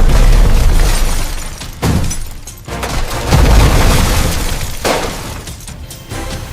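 Dramatic soundtrack music with heavy booming impacts and crashing, shattering sound effects; three sudden hits come about a second and a half apart.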